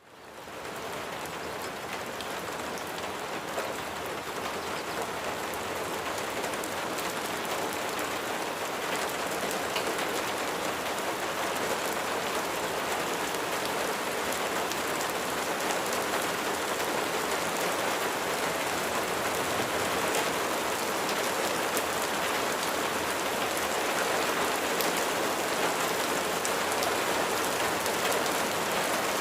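Steady rain falling, an even hiss with fine drop patter. It fades in quickly at the start, then grows slowly a little louder.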